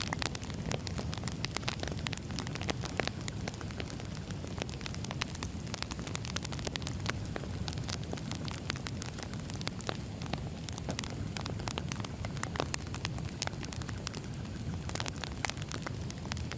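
Burning firewood crackling: dense, irregular pops and snaps over a steady low rumble of the flames.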